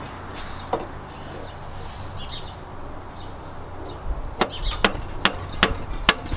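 Quick sharp metal taps on the starter solenoid of a 2003 Chevy S10 Blazer's 4.3-litre V6, starting about four seconds in at roughly three a second, with a low rumble beneath. This is the old-school trick of tapping a failing starter while the key is held, to get it to catch on an intermittent no-start.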